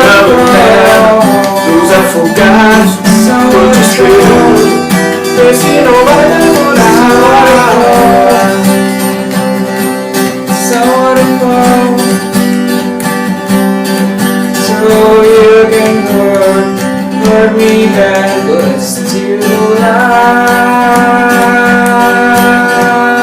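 Acoustic guitar playing the instrumental end of a pop song, with a wordless sung melody over it in the first several seconds, then mostly the guitar's held chords.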